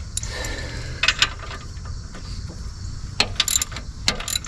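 Hand socket ratchet clicking in short bursts as a stubborn rear-brake bolt is worked, over a steady low hum.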